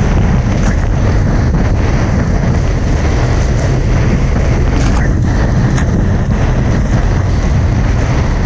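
Strong wind buffeting the microphone aboard a Hobie 16 catamaran sailing fast in high wind, with water rushing past the hulls and a few sharp ticks.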